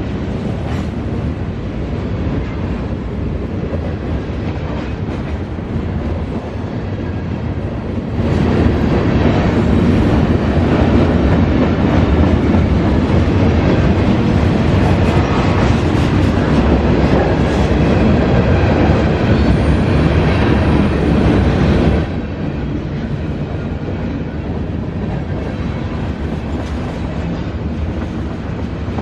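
CSX freight train cars rolling past, wheels clicking over the rail joints. The sound gets much louder about eight seconds in and drops back abruptly about twenty-two seconds in.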